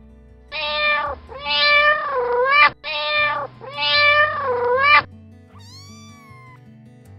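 Kitten meowing: four loud meows in two identical pairs, the second pair a repeat of the first, then a fainter single meow about six seconds in, over soft background music.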